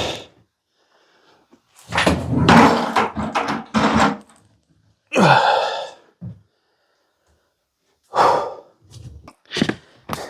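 Loud thunks and clattering handling noise in several separate bursts, the longest about two seconds in, then shorter ones about five, eight and ten seconds in.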